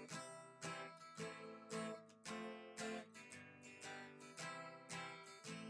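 Acoustic guitar strummed quietly, with about two strums a second.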